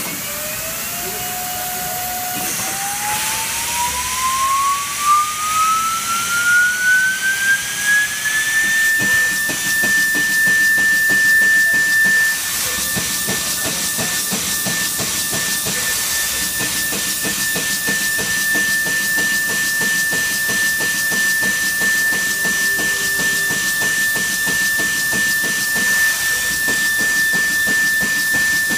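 High-speed spindle of a Pluritec PCB drilling machine spinning up, its whine rising steadily in pitch for about nine seconds, then holding one high, steady note as it runs at speed. An air hiss runs underneath, and once the spindle is at speed a fast run of light ticks comes from the drilling.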